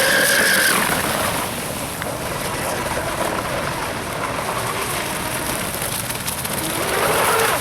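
Fast RC speedboat's motor whining across the water, rising in pitch in the first second, then fading. It swells again near the end, over steady wind noise.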